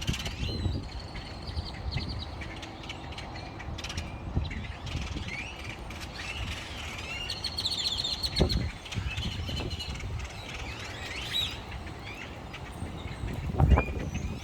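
Several small backyard birds chirping and trilling over one another, with rapid repeated-note trills among the calls. Low rumbling on the microphone underneath, with a thump about eight seconds in and a louder one near the end.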